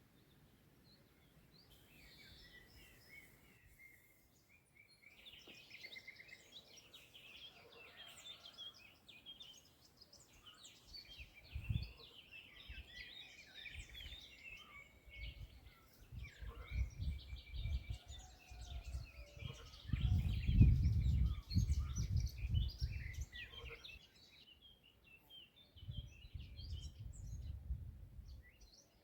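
Several songbirds singing and chirping. Under them, low rumbling bursts come and go from about a third of the way in and are loudest a little past the middle.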